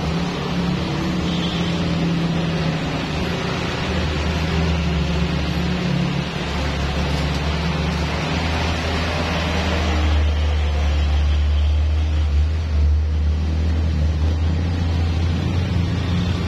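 Heavy truck engine running with a steady low drone over road and tyre noise; the drone grows stronger and the hiss above it fades about ten seconds in.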